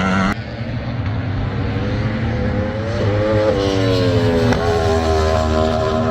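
Superbike racing engines at high revs, rising in pitch with gear changes about three and a half and four and a half seconds in. The sound drops suddenly just after the start.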